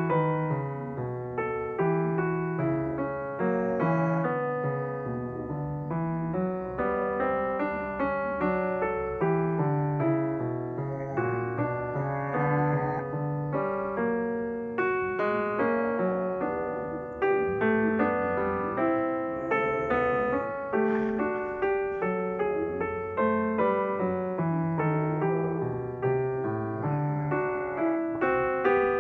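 Background piano music, a continuous stream of notes struck one after another.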